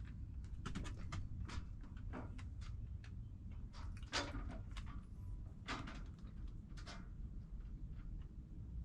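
Irregular light knocks and clicks, the strongest about four and six seconds in, over a low steady rumble.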